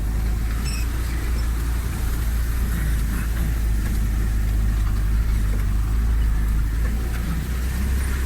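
Off-road vehicle engine running steadily at low revs, a continuous low drone while the vehicle drives slowly along a forest track.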